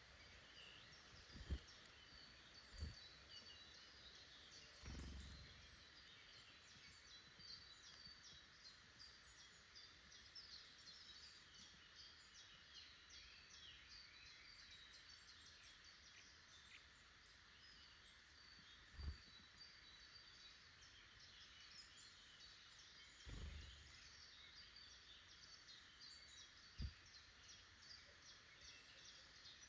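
Faint woodland birdsong: many small birds calling and singing over each other without a break. A few brief, soft low thumps stand out, about six in all.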